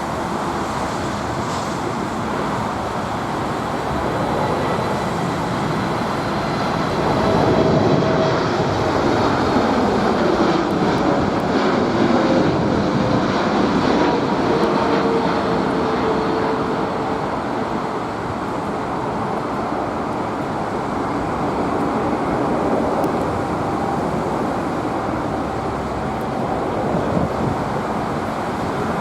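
Boeing 747 jet engines passing, a steady rumble that swells to its loudest from about 8 to 15 seconds in, with a whine that slides down in pitch as the aircraft goes by.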